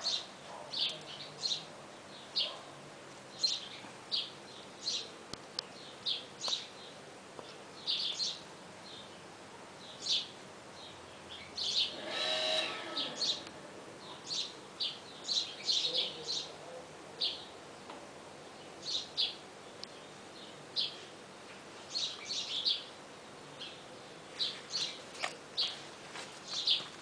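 Small birds chirping: short, high chirps in quick clusters, one or two a second, with one longer, louder call about twelve seconds in.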